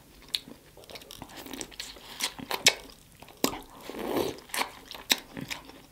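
Close-up mouth sounds of biting and chewing a sauce-soaked corn on the cob: irregular wet clicks, smacks and crunches.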